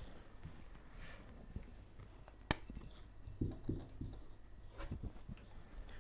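Quiet room tone with a faint steady hum, one sharp click about two and a half seconds in, and a few soft knocks.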